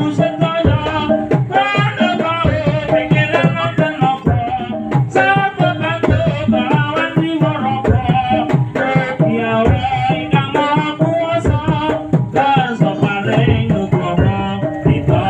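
Javanese Topeng Ireng dance music: hand drums beaten in a fast, busy rhythm under a wavering sung melody.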